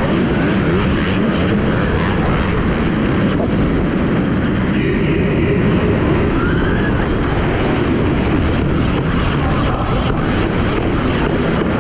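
Dirt bikes running on an arenacross track during a race: a loud, steady engine and track noise with faint rising and falling pitch from the bikes.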